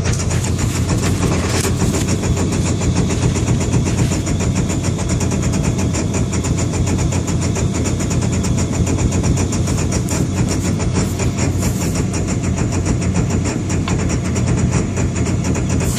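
Engine idling roughly, a steady run of rapid, closely spaced firing pulses.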